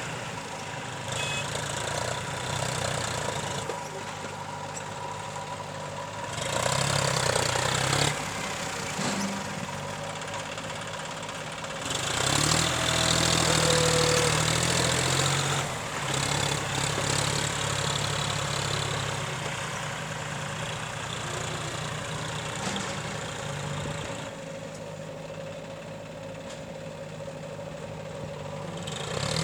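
Heavy diesel machinery engine running steadily, swelling in loudness about six seconds in and again around twelve seconds as it works under load, then easing back.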